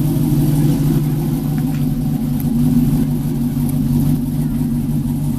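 Pickup truck engine running with a steady, loud low drone.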